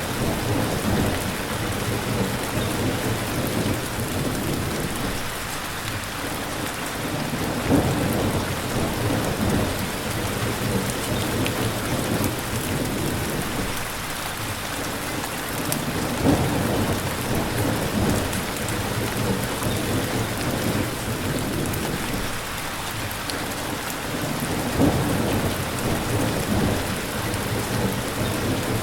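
Steady, heavy rain falling, with low rumbles of thunder swelling and fading about every eight seconds.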